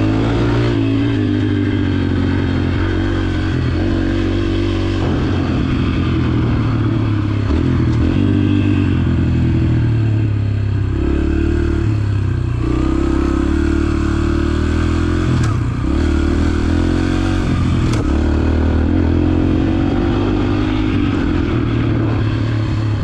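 Dirt bike engine running while being ridden. Its pitch rises and falls again and again as the throttle is opened and closed.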